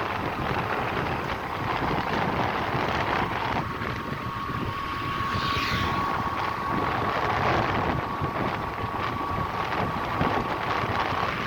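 Road vehicle travelling, with steady road rumble and wind buffeting the microphone. A thin steady whine joins in about three and a half seconds in and holds on.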